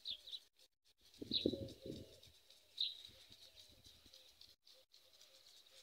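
Faint bird calls: three short high chirps and soft, low, repeated cooing, like a dove's.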